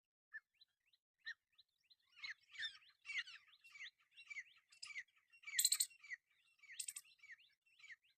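Parrots chirping and calling in quick succession: a few scattered calls at first, then busy chatter from about two seconds in, with two louder, harsher calls near the middle.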